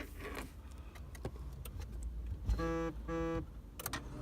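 A car running with a steady low rumble, a few light clicks, and two short horn beeps in a row about two and a half seconds in.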